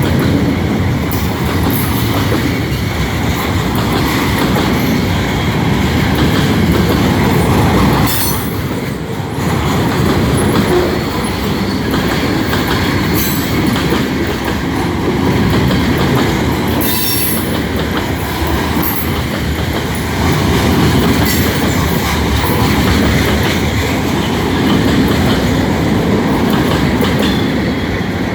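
Freight train cars rolling past as the train slows, wheels clicking over the rail joints with a steady rumble, and a few brief high wheel squeals.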